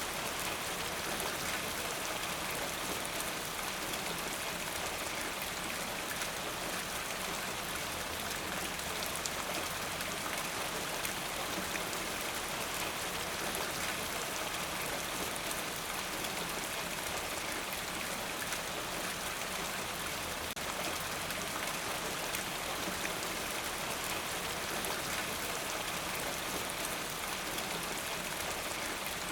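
Steady rain, a continuous hiss of falling water with many fine drop patters on a surface.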